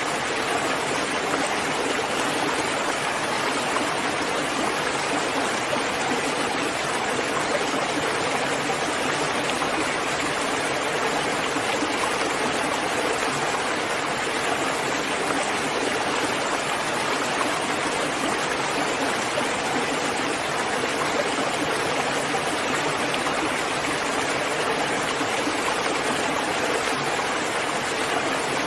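Steady, even rainfall, a constant hiss of falling rain with no gaps or distinct drops standing out.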